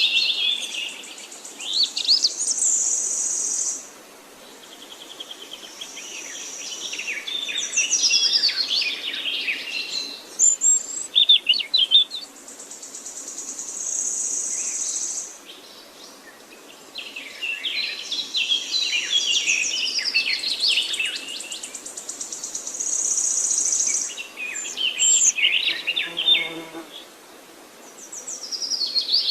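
Songbirds singing: phrases of fast trills, whistles and high sustained notes, one after another with short pauses between them.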